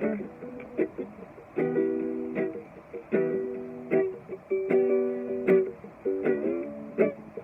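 Guitalele strummed in an acoustic reggae rhythm: short muted chops between chords that ring for about a second, four times.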